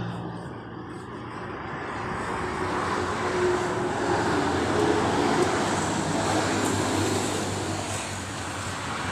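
Road traffic noise from a passing vehicle, a rushing sound that swells to a peak about five seconds in and then fades.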